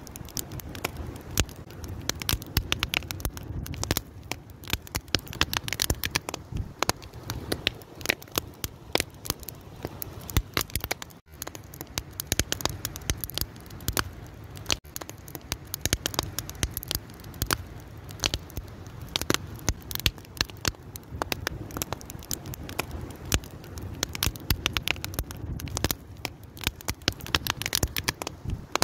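Wood fire crackling, with constant irregular pops and snaps over a low steady rumble of the burning.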